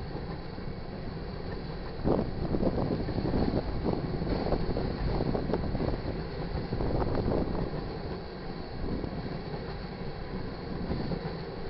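Crude-oil tank cars of a freight train rolling past on the rails: a steady rumble of steel wheels on track, with repeated clacks as the wheelsets pass over rail joints, loudest from about two to eight seconds in.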